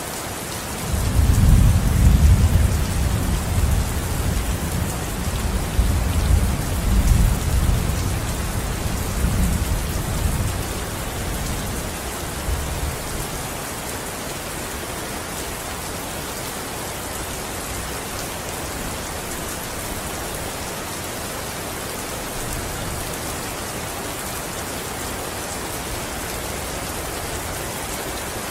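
Steady rain falling, with a low roll of thunder that starts about a second in, swells twice and dies away after about twelve seconds.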